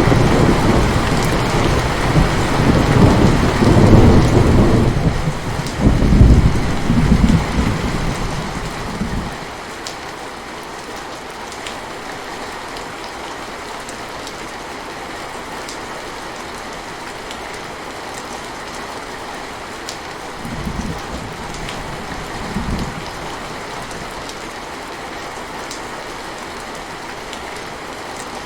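Steady rain falling, with a long rolling thunder rumble over the first nine seconds or so that dies away. Two brief, fainter rumbles of thunder come later, about two-thirds of the way through.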